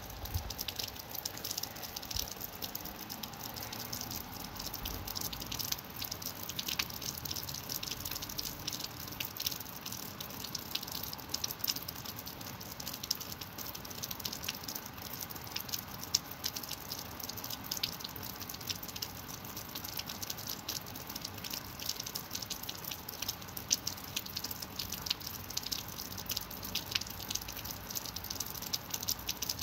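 Rain falling steadily: countless separate drops tick sharply over a continuous hiss, with no let-up.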